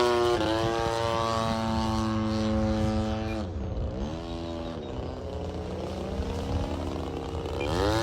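Motor and propeller of a radio-control model plane in flight, a steady pitched drone. A little after three seconds in the pitch drops sharply and the sound gets quieter as the throttle comes back. It runs low until near the end, then the pitch climbs again as power is added.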